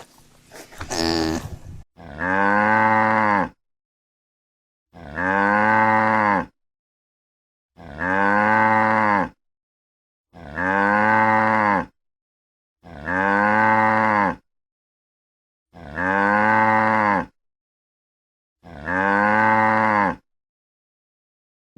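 Cow mooing, the same call heard seven times about every three seconds. Each moo lasts about a second and a half, rises and then falls in pitch, and is separated from the next by dead silence, as a looped recording would be.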